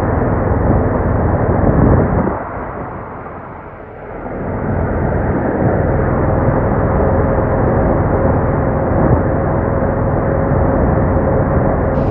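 Boat engine running steadily with a constant hum; about two seconds in it eases off briefly, then picks back up.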